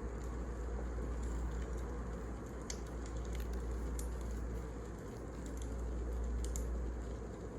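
Wood fire burning in a fireplace: a steady low rumble with a handful of sharp crackles and pops scattered through it.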